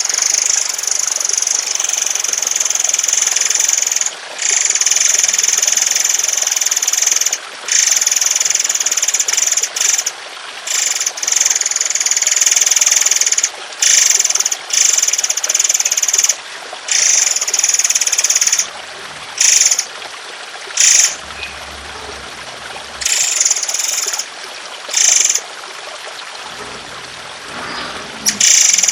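Songbird song used as a masteran tutor track: long, harsh, rapid bursts of high notes, broken by short pauses, over a steady trickle of water.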